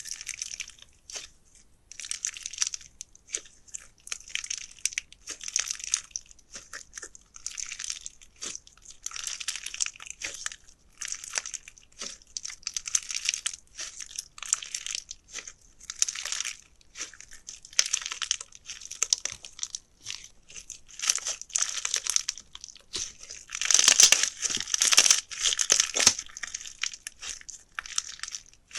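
Slime being squeezed and pressed by hand, giving crackling, crunchy sounds in irregular bursts, loudest toward the end.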